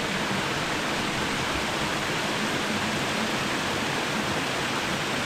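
Steady rush of water cascading at the source of a waterfall, an even roar with no breaks.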